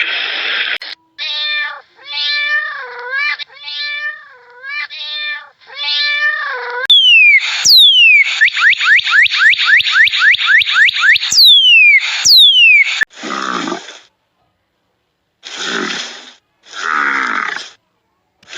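A run of different animal calls: first several drawn-out pitched calls, then a fast series of high falling chirps at about four a second, then a few short rough calls.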